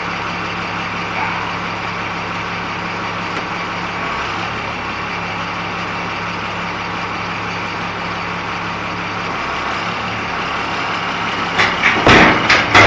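A large engine running steadily at idle, with a short burst of loud, sharp noise near the end.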